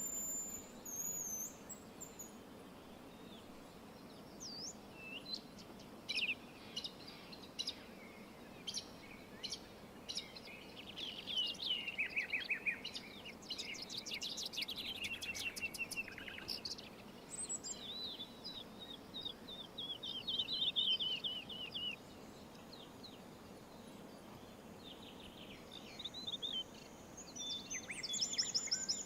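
Several songbirds calling and singing, with scattered chirps and a few rapid trills of repeated notes, over a faint steady background hiss.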